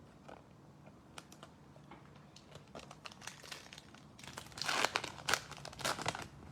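Crinkling and tearing of a foil trading card pack wrapper being ripped open by hand. It starts as sparse crackles and gets denser and louder for a couple of seconds near the end.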